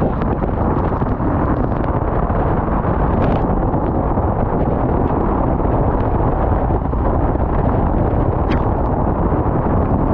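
Loud, steady wind buffeting on the microphone of a camera riding on a moving go-kart, with the kart running underneath and a few faint ticks.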